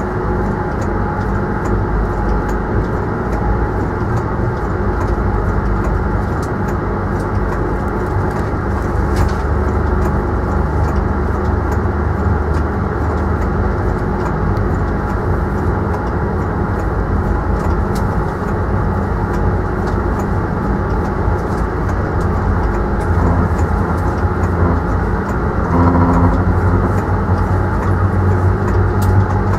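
Train running, heard from inside the driver's cab: a steady drone with a deep rumble underneath and faint scattered ticks.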